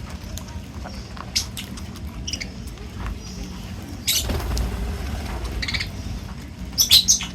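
Birds giving short, high squeaks and chirps several times, loudest near the end, over a steady low hum.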